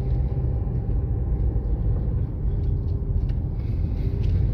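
Steady low rumble of a car driving, engine and road noise, with a few faint clicks.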